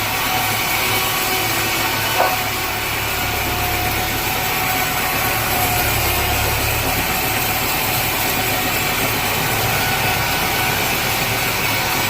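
Sawmill machinery running steadily, a motor hum with a faint whine on top, with one brief knock about two seconds in.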